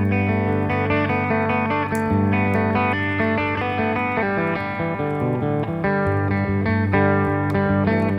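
Slow instrumental desert-blues guitar passage: plucked guitar notes over a steady low bass note, with no singing.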